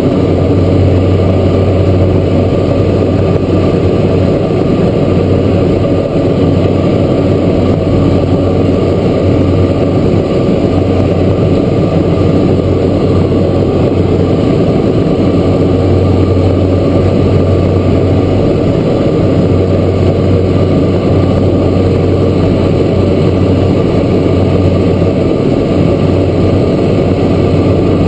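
Cessna Grand Caravan's single Pratt & Whitney PT6A turboprop engine running steadily, heard from inside the cabin as a loud, even drone with a deep hum.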